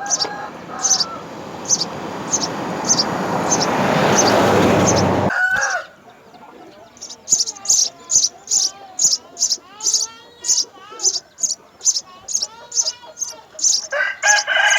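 House sparrows chirping: short, high calls repeated about two to three times a second. They come through after a rising hiss that swells for about five seconds and then cuts off sharply.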